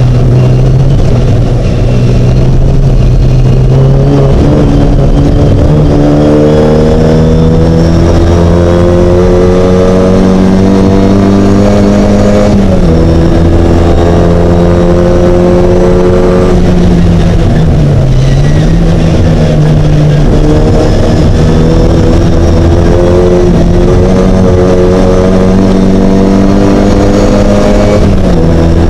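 Mini race car's engine run hard at racing speed. Its pitch climbs steadily under acceleration and steps down at gear changes, once about twelve seconds in and again near the end, with a brief dip and pick-up in between.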